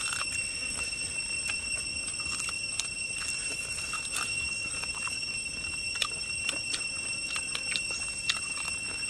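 Close-up chewing and biting of cooked baby crocodile meat: irregular crunches, smacks and clicks of teeth and lips. Under it runs a steady high-pitched whine.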